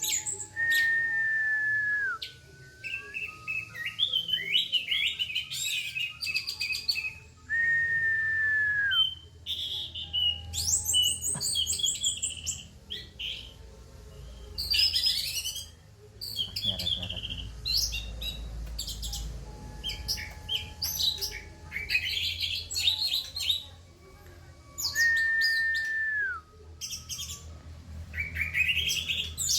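Orange-headed thrush singing in dense, loud bursts of fast chattering and rattling phrases of varied notes. These are broken four times by a long held whistle that drops in pitch at its end. A faint low rumble sits underneath in the middle stretch.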